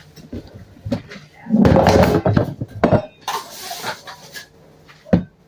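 A utensil stirring a thick chicken-and-cream mixture in a skillet, scraping and clinking against the pan, with a few sharp knocks on the pan.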